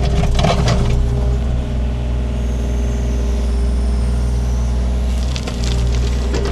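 Takeuchi TB230 mini excavator's diesel engine running steadily under load while it digs in rocky ground. There are clattering knocks of the bucket against rocks about the start and again near the end.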